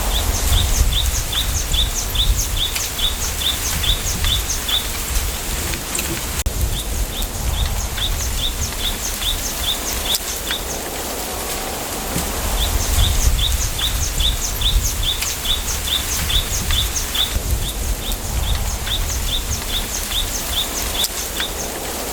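A bird singing runs of quick, high, short notes, about three a second, each run lasting a few seconds and repeating several times. Underneath, steady wind rustling through bamboo leaves with a low rumble of wind.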